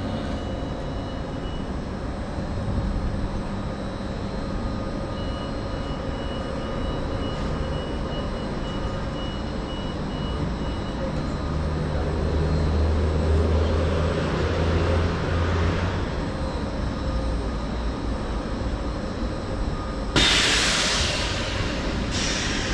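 Train at a railway station platform: a steady low rumble that swells for a few seconds in the middle, then two sudden loud hisses near the end.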